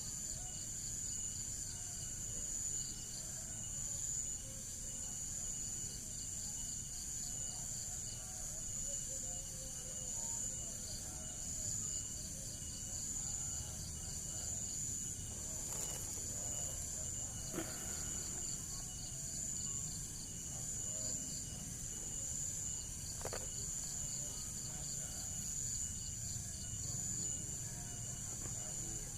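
Crickets chirring steadily in a high, finely pulsing trill over a low background rumble, with a few faint clicks past the middle.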